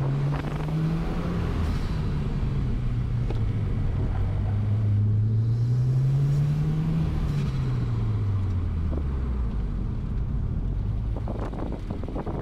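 Turbocharged 2.0-litre flat-four engine of a 2020 Subaru WRX under load on an autocross course: the revs climb twice, then fall away from about seven seconds in to a low rumble as the car slows after the run.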